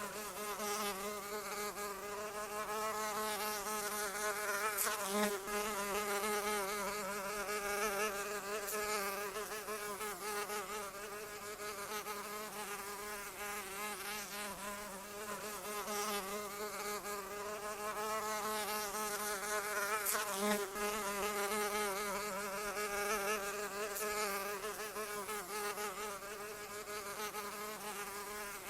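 A flying insect's wings buzzing in a continuous drone, the pitch wavering constantly, the loudness swelling and easing every few seconds as if it circles close and away.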